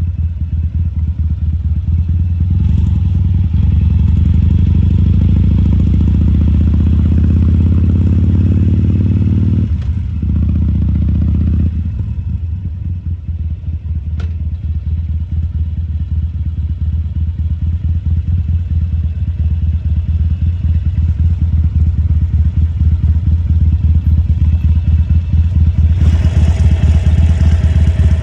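2014 Harley-Davidson Sportster XL1200C's air-cooled V-twin running at low parking-lot speeds, the throttle opened about three seconds in and rolled off near twelve seconds, then slowly built up again. A rushing hiss joins the engine near the end.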